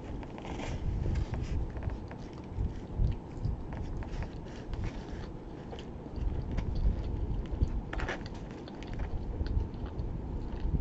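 A person biting into a slice of pizza and chewing it, with many small mouth clicks and a louder, noisier bite about 8 seconds in.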